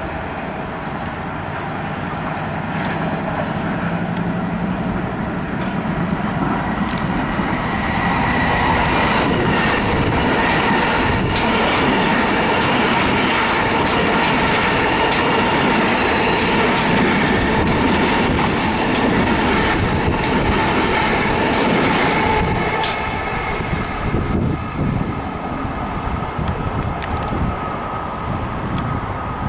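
A Long Island Rail Road train going by the station. It grows louder over the first several seconds and stays loud with a steady whine over the noise until about 22 seconds in, then eases off.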